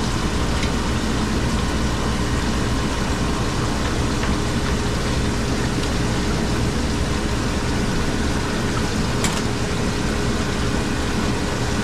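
Hoshizaki ice machine running with its new compressor: a steady mechanical hum with a constant tone. There is a single light click about nine seconds in.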